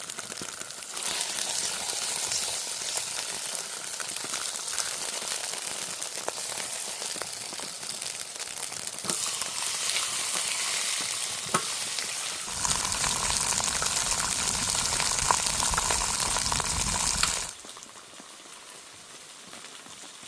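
Chicken frying in hot oil, sizzling steadily. The sizzle gets louder and fuller about two-thirds of the way through, then cuts off suddenly to a quieter hiss near the end.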